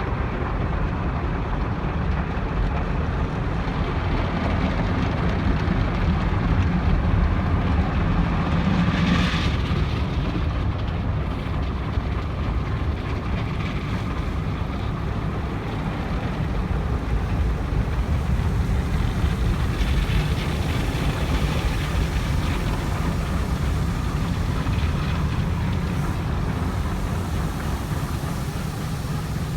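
Automatic car wash running, heard from inside the car's cabin: a steady low noise of water spray and wash machinery working over the body, with a brief louder, hissier rush of spray about nine seconds in.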